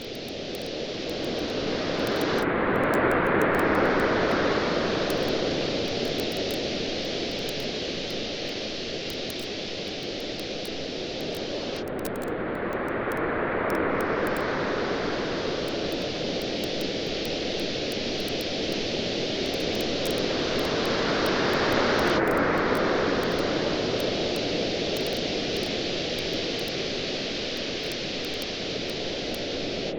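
Ocean waves washing onto a beach, swelling and fading slowly three times, about every nine seconds, over a steady rushing hiss, with the small, sharp crackles of a wood campfire scattered throughout.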